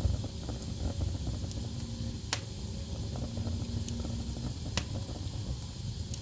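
Wood fire burning in a fireplace: a steady low rumble of flames with constant small crackles, and two louder sharp pops, a little past two seconds in and just before five seconds in.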